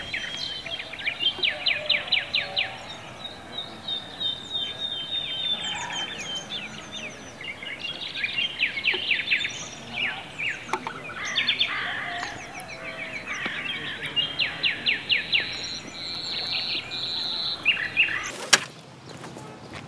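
Songbirds singing, with rapid chirping trills and short whistles repeated over and over. A sharp click near the end, after which the birdsong drops away.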